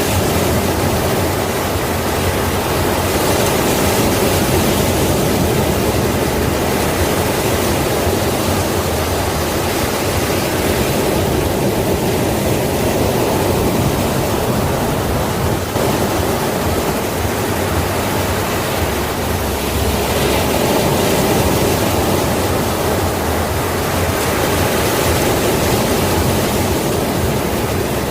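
Sea waves breaking on the shore: a continuous wash of surf that swells and eases every several seconds.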